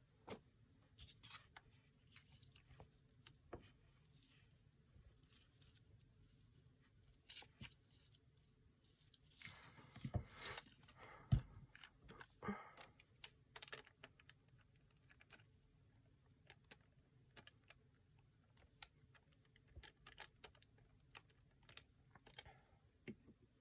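Quiet paper handling at a craft desk: scattered light taps and clicks, with a longer stretch of paper rustling about ten seconds in.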